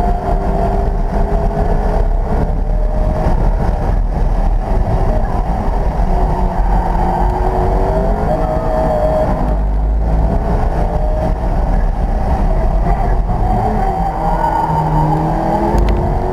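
McLaren P1's twin-turbo V8 heard from inside the cabin at speed, over steady road and wind rumble. The engine note rises as the car pulls to about 110 mph, then drops as it brakes hard for a slow corner, and climbs again as it powers out near the end.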